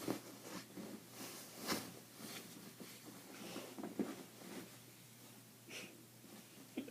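Faint small-room sounds of a person keeping silent: soft breaths and snorts through the nose, with a few short clicks and rustles scattered through.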